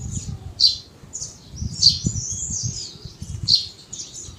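A bird calling repeatedly in the background: a series of short, high chirps and squawks, roughly one every half second to second, over a faint, uneven low background noise.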